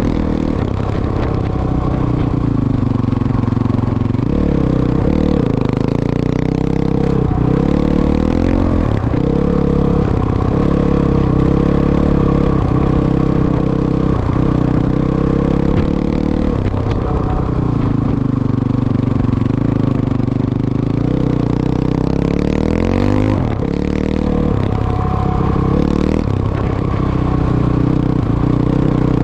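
Motorcycle engine running under load, its pitch rising and falling repeatedly as the throttle is opened and closed, with short breaks every few seconds.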